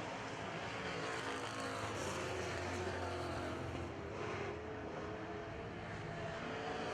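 Several super truck race engines running together on a dirt oval, their pitches rising and falling as they lap.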